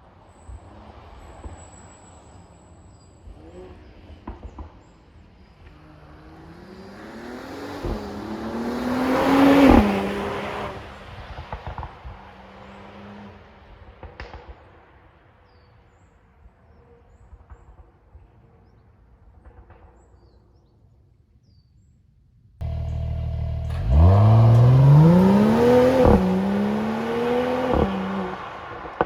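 Mercedes-AMG GLE 53's 3.0-litre inline-six with Performance Exhaust accelerating hard twice, revs climbing with quick upshifts between. The second run starts suddenly and is the loudest.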